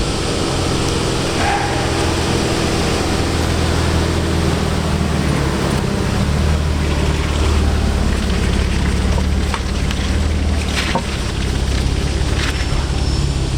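Modified car's engine running at low speed with a loud, deep exhaust rumble, growing stronger about halfway through as it pulls in.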